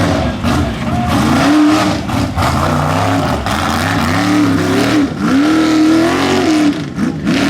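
Mega truck engine revving hard, its pitch rising and falling over and over as the driver works the throttle through the mud pit.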